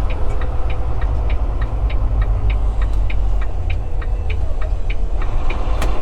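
Semi-truck's diesel engine running with a steady low rumble heard from inside the cab, with a light, even ticking about three to four times a second.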